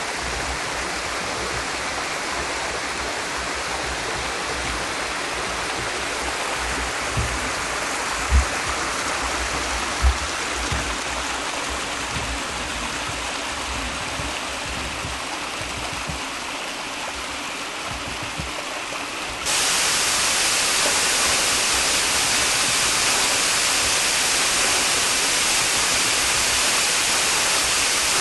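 Steady rush of water falling at a partly frozen waterfall. A few low thumps come through around the middle, and about two-thirds of the way in the rush jumps suddenly louder and brighter.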